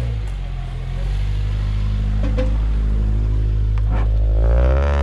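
Honda CR-V's engine running as the car drives slowly along a dirt track, a steady low drone with a few short knocks, growing louder near the end as it passes close by.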